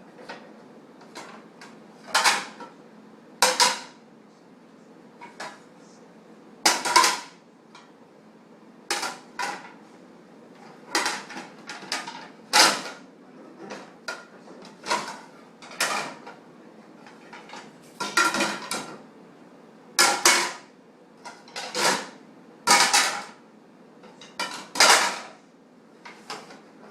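Plates and cutlery clinking and clattering as they are handled one at a time at a dishwasher, about twenty separate clatters at irregular intervals of a second or so.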